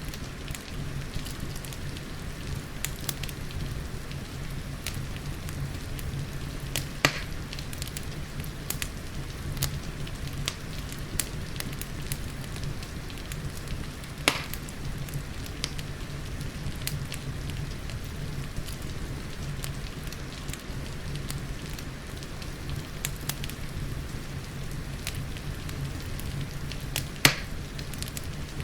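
Wood fire crackling in a fireplace with a steady patter of rain behind it; many small crackles, with three louder pops spread through.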